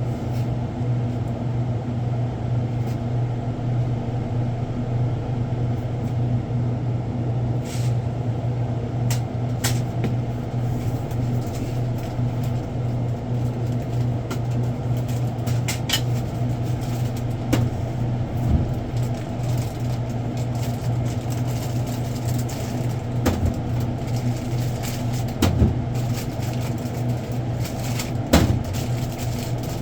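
Steady low machine hum with scattered short knocks and clacks of boxes and packaged goods being handled during convenience-store stock sorting.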